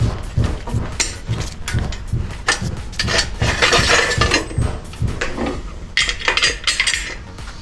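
Metal hand tools clinking and clicking against metal engine parts in quick, irregular strokes, densest around the middle and again near the end.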